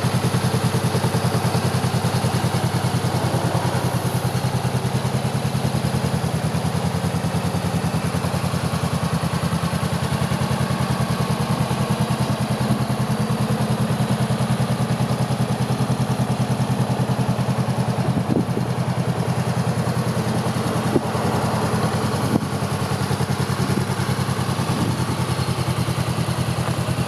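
Honda CBR500R parallel-twin engine idling steadily through an Akrapovic slip-on exhaust, with a couple of light clicks about two-thirds of the way through.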